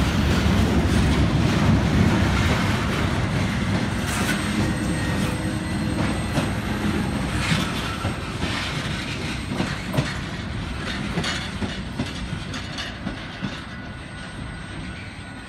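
Double-stack container train rolling past on welded rail: a steady rumble of steel wheels with sharp clicks as they cross rail joints, fading steadily as the last well cars move away.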